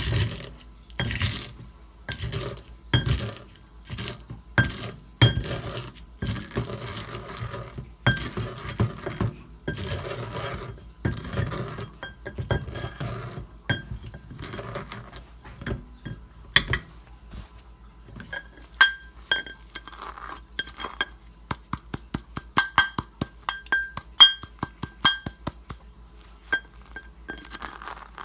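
Eggshells being crushed with a kitchen utensil against a hard dish. Repeated grinding strokes about once a second give way, about halfway through, to many quick, sharp clinking taps.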